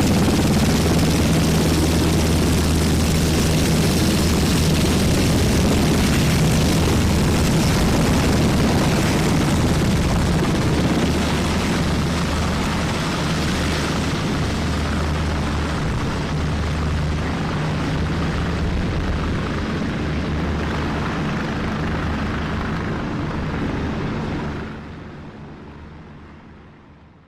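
Military transport helicopter running close by: a steady rotor and turbine noise with a low hum underneath. It eases a little about halfway through, then fades out over the last few seconds.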